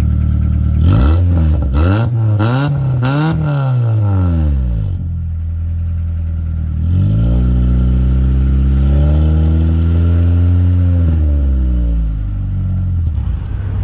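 1998 Honda Accord's engine heard through a new budget DNA catback exhaust with its silencer insert removed: idling, then blipped several times in quick succession, then given one longer rev that climbs, holds for a few seconds and drops back to idle.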